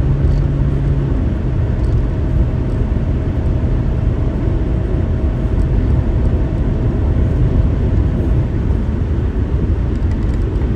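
Steady, loud, low rumble of a vehicle in motion.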